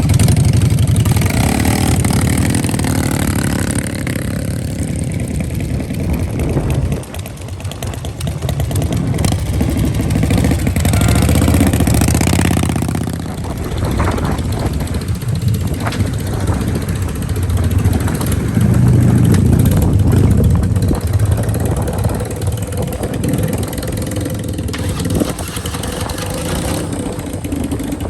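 Loud vehicle engines running and revving, the sound swelling and falling several times, with a brief drop about seven seconds in.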